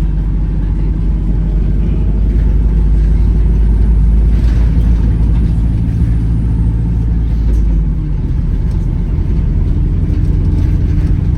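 Wright Gemini 2 hybrid double-decker bus under way, heard on board: a steady low engine and road rumble, with a faint high whistle that rises slightly and fades out about two-thirds of the way through.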